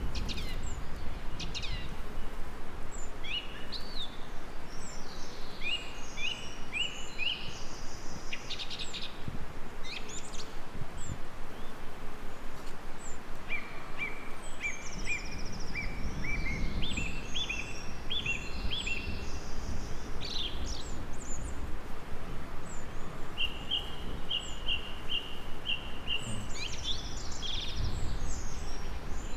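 Several songbirds singing, short chirps and rapid trills of repeated notes, over a steady low background rumble.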